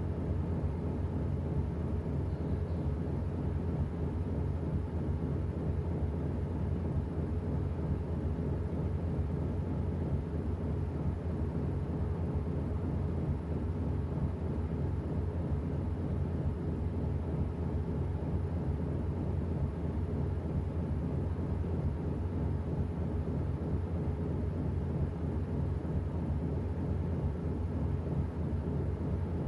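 Washing machine running, a steady low mechanical hum that holds without pause.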